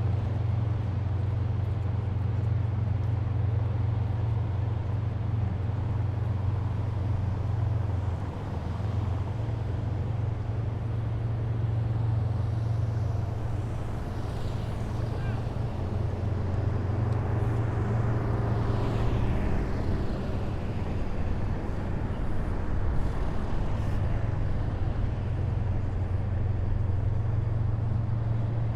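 Heavy military vehicles passing in a column, their engines giving a steady deep drone, with rising whines coming in about halfway through.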